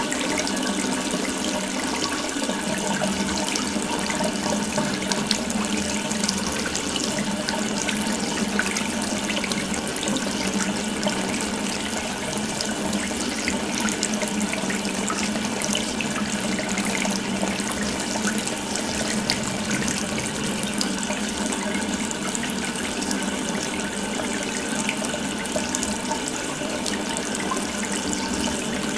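Water running steadily from an open tap, a continuous splashing stream.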